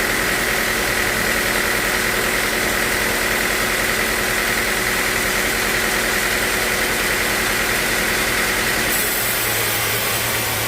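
Sawmill machinery running steadily, an engine-like drone with a throbbing low pulse and a steady whine. About nine seconds in the sound shifts: the hiss gets brighter and a new low hum comes in.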